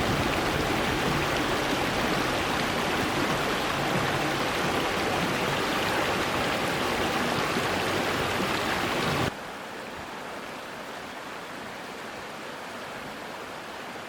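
Strong blizzard wind blowing hard, a dense steady rush with deep rumble from gusts on the microphone. About nine seconds in it cuts off suddenly to a much softer, thinner steady wind hiss.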